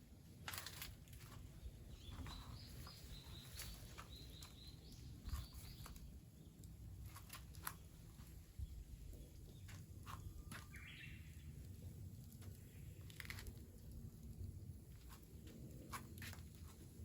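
Quiet rural outdoor ambience with a bird chirping faintly: a short run of high notes about two seconds in and another brief call about eleven seconds in. Scattered light clicks sound over a low, steady background hum.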